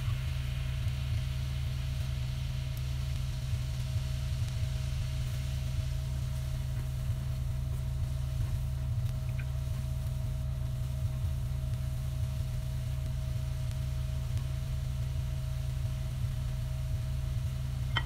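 Steady low mechanical hum with a thin steady whine above it, unchanging throughout.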